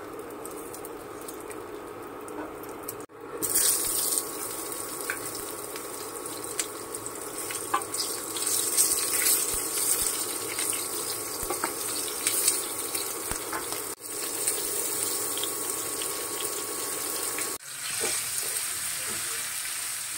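Dried anchovies and onions frying in hot oil in a pan, a steady sizzle with scattered crackles and the scrape of a spatula stirring. The sizzle gets louder about three seconds in and breaks off abruptly for an instant three times.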